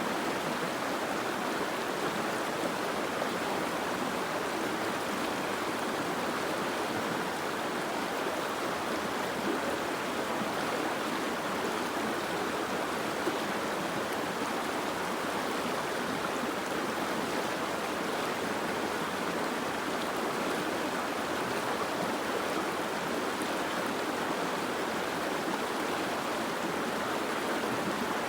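Steady rushing water, an even wash of noise with no breaks or separate drops standing out.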